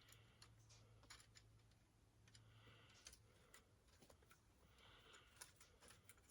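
Near silence: faint room tone with a low hum and a few scattered faint clicks.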